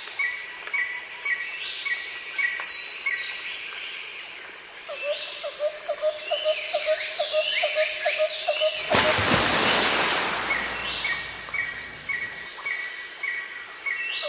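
Outdoor nature ambience: several birds singing in short repeated chirps and whistled notes, with insect-like trilling. A loud rushing noise swells up about two-thirds of the way through and lasts a few seconds.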